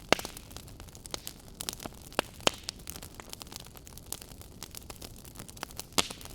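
Wood fire in a fireplace crackling: irregular sharp pops and snaps over a soft steady hiss, with a few louder pops just after the start, twice around two and a half seconds in, and near the end.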